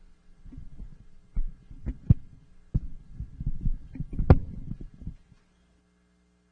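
Irregular muffled low thumps and knocks of a microphone being handled, with two sharper clicks about two and four seconds in. The sound cuts out abruptly a little past five seconds.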